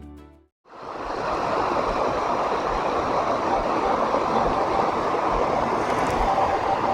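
A music tail fades out, then after a brief gap the steady rush of a waterfall fades in and holds.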